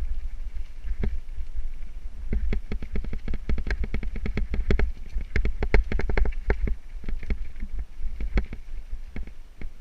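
Mountain bike rattling and clattering over a rough trail, a dense run of sharp knocks from about two to seven seconds in, over a steady low rumble of wind on the microphone.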